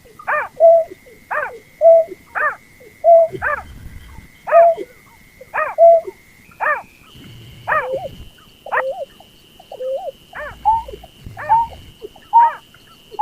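Berkik (snipe) lure call: a bird call repeated about once a second. Each call is a sharp falling note followed by a shorter, lower note. A faint steady high tone runs behind, stepping up in pitch about halfway through.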